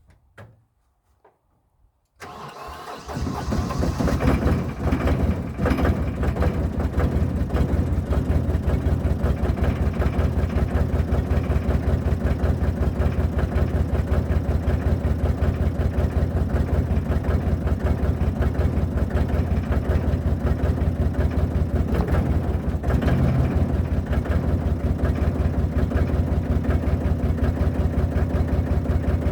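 Barford SX3000 site dumper's diesel engine cold-starting at −4 °C after standing about a week. It catches about two seconds in, picks up over the next couple of seconds, then settles into a steady, even idle.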